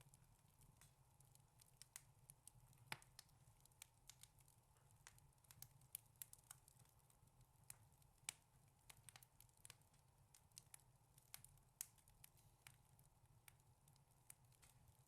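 Wood fire crackling faintly in a fireplace: irregular sharp snaps and pops, a few louder than the rest, over a low steady hum.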